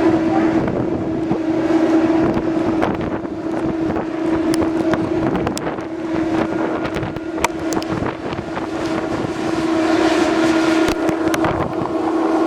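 Steady drone of the passing ferry MV Salish Eagle, a constant hum that fades somewhat in the middle and swells again near the end, under wind rushing on the microphone and scattered sharp ticks.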